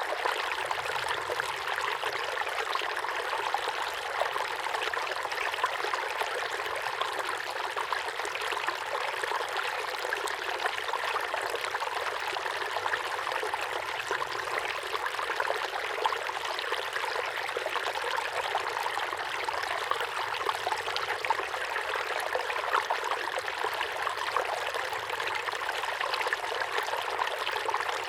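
Small waterfall pouring steadily into a pond: a continuous splashing rush of water with many fine droplet patters, steady throughout.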